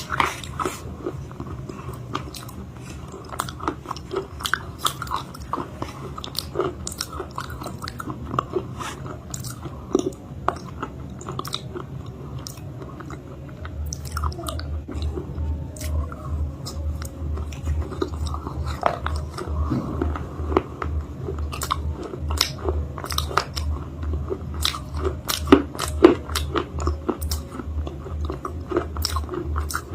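Close-up biting and chewing of a dried chalk-paste cake, with irregular crunchy crackles throughout. A steady low hum comes in about halfway.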